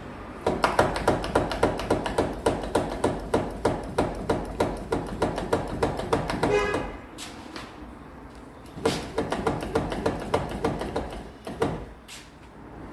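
Two runs of rapid, regular mechanical clicking, about four to five a second: the first lasts about six seconds and ends with a short squeak, the second about three seconds, with a few single knocks between and after.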